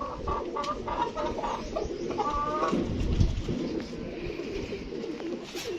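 Kept birds calling in short repeated notes during the first half, with a brief low rumble about three seconds in.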